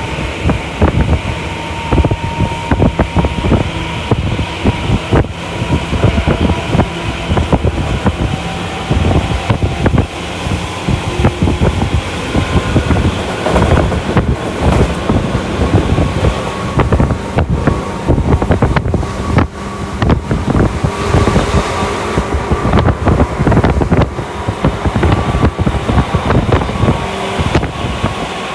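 Tokyu Toyoko Line electric train running along the track: a steady rumble of wheels on rail with frequent clicks and rattles, and faint steady tones over it.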